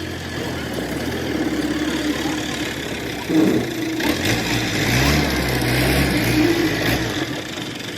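An engine running, with a knock about three and a half seconds in, then a stronger engine note that rises in pitch for a few seconds before easing back.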